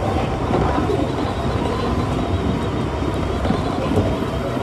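Kintetsu electric commuter train running along the line: a steady rumble of wheels on rails and running gear, heard from inside the front car.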